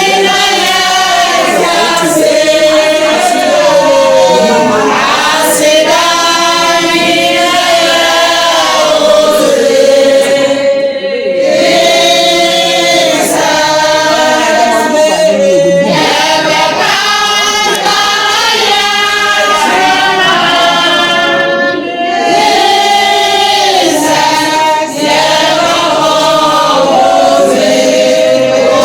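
A group of voices singing together in chorus, with two short breaks between phrases.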